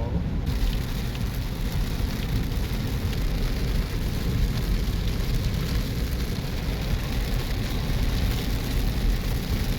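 Heavy thunderstorm rain pouring steadily, its hiss rising about half a second in, over a constant low rumble.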